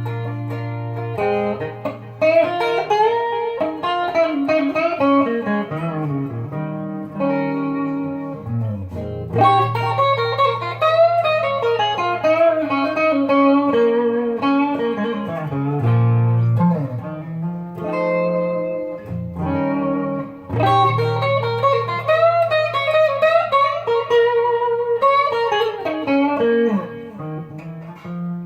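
Wolf KSA-50 electric guitar played clean on its neck pickup through a Boss Katana 50 amp: single-note melodic runs that climb and fall, with low notes held between phrases.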